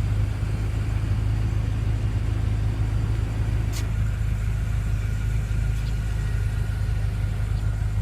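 Steady low rumble of the BMW M5's twin-turbocharged 4.4-litre V8 idling, heard from inside the car, with a single sharp click a little under four seconds in.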